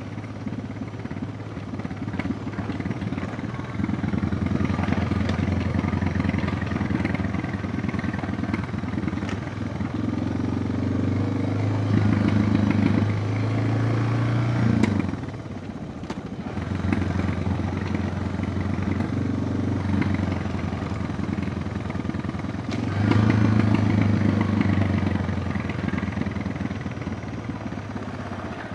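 Suzuki DR650's single-cylinder four-stroke engine running under way off-road, the throttle opening and easing off. The engine drops away sharply about halfway through, then picks up again, and rises once more near the end.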